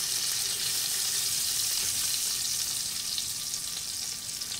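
Diced meat frying in hot fat in an aluminium pot: a steady sizzle.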